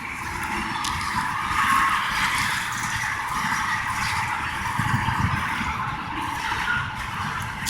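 Cars of a long Iowa Interstate freight train rolling past on the rails: steel wheels make a steady hiss over an uneven low rumble.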